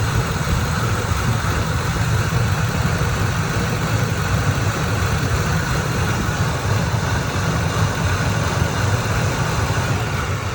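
2003 Ford Expedition's V8 engine idling steadily while warming up from a cold start, about six minutes in. The intermittent chirp it makes at operating temperature is not yet heard.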